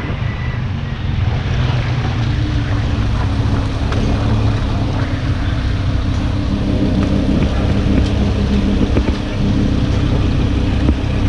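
Lamborghini Huracán's V10 with Fi exhaust running at a steady, even pitch, with wind noise over it.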